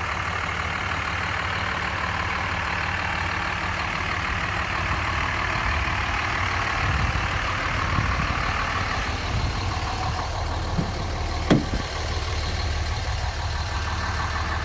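Cummins 5.9-litre 24-valve turbo-diesel inline-six in a 2004 Dodge Ram 2500 idling steadily. A single sharp click sounds late on.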